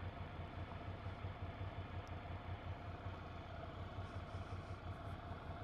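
Ducati Monster 797's air-cooled L-twin engine idling steadily with an even low throb, heard faintly, while the bike waits at a traffic light.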